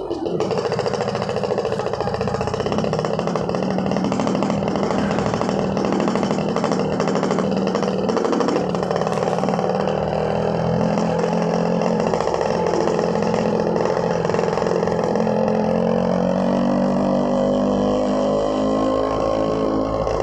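Suzuki RC100 single-cylinder two-stroke engine running while the motorcycle is ridden, the exhaust note rising and falling with the throttle and climbing near the end.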